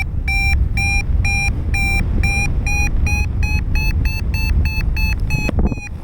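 Paragliding variometer beeping in a climb: short high beeps about three a second, quickening slightly and rising a little in pitch, the sign of the glider going up in a thermal. Wind rushes over the microphone underneath.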